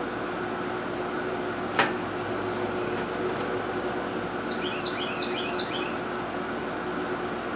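Steady background hum, with one sharp click about two seconds in and a bird chirping a quick run of short notes about five seconds in.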